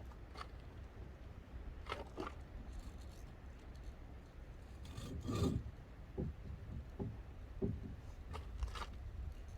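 Wood being handled and scraped: irregular short scrapes and knocks every second or so, the loudest cluster about five seconds in.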